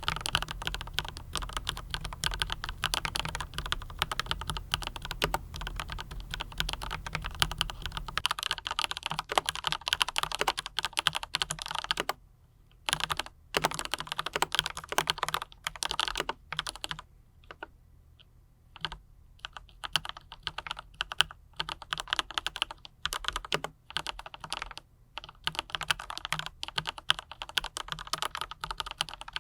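Mechanical keyboard with Autumn Rain switches and PBT double-shot keycaps being typed on, the clicks of the keystrokes coming in quick runs. Partway through, the typing thins to separate strokes with short pauses, then picks back up to a steady run.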